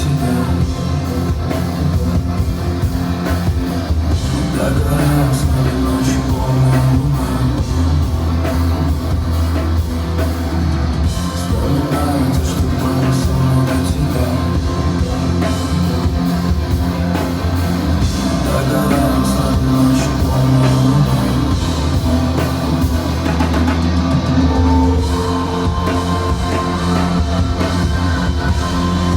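Rock band playing live, with electric guitar, drum kit and a singer, loud and continuous.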